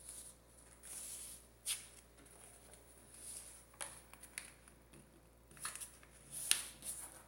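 A sheet of paper being folded and creased by hand: soft, intermittent rustling with a few sharp crinkles, the loudest near the end.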